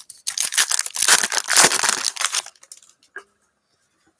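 Foil trading-card pack wrapper being torn open and crinkled in the hands, a dense crackling for about two and a half seconds, then a faint click.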